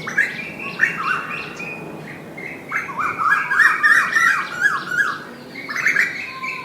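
Asian koel calling: quick series of short, rising whistled notes that grow busier in the middle.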